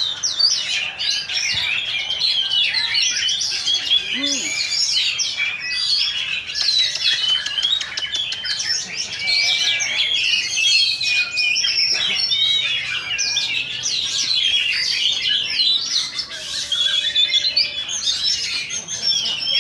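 Many oriental magpie-robins singing at once: a dense, unbroken chorus of overlapping chirps, whistles and warbled phrases from caged contest birds.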